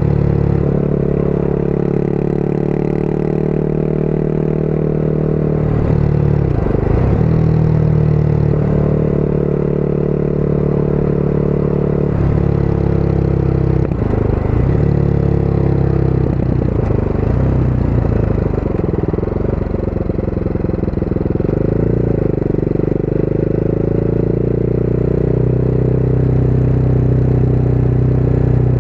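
Motorcycle engine running steadily on the road, its note dipping and recovering a few times along the way.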